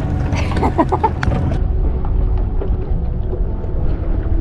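Steady low rumble of wind buffeting the microphone on a small open boat, with a few brief clicks and pitched sounds in the first second and a half.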